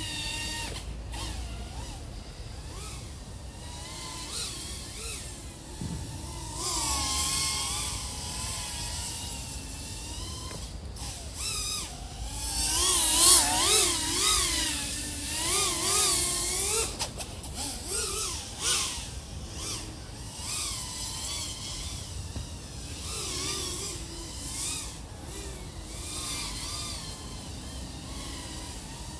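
Brushless motors of a 3.5-inch FPV quadcopter (iFlight AOS 3.5 V5 with XING 1504 3100KV motors) whining, the pitch rising and falling constantly with throttle. The loudest, highest whine comes in a run of hard throttle bursts about halfway through.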